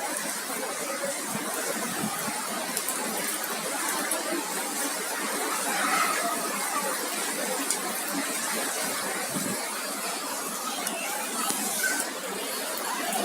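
Heavy rain mixed with hail pouring down: a steady hiss with scattered sharp ticks.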